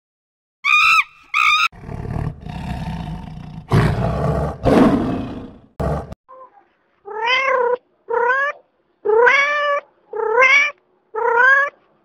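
Two short high-pitched macaque calls, then a lion roaring for about four seconds, loudest near the middle. About a second later a cat meows five times in a row, each meow rising then falling in pitch.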